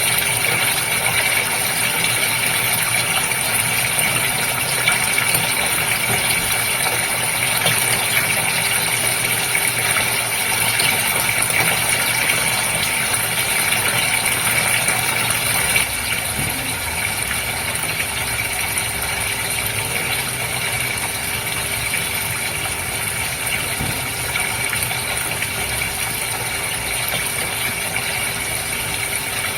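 Aquarium pump or filter running steadily with water trickling and bubbling, a constant hum and rattle under the water noise. The level dips slightly about halfway through.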